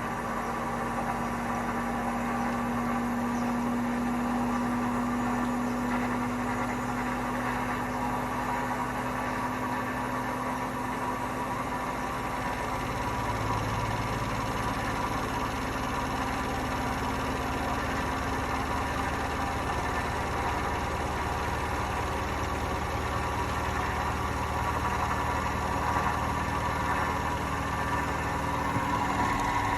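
Hotpoint washing machine spinning up toward 1200 rpm, a steady mechanical rumble with several humming tones from its worn drum bearings. The tones shift about halfway through and the noise grows slightly louder near the end as the spin speed climbs.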